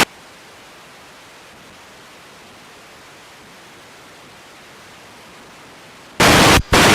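Air-traffic-control radio frequency with no one talking: a steady even hiss of static, then two loud bursts of static about six seconds in, one short and one longer, as the channel opens without a voice.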